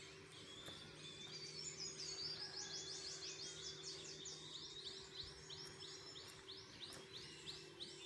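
Outdoor ambience: a bird calling in a rapid series of short, high chirps, about five a second, over a faint steady low hum.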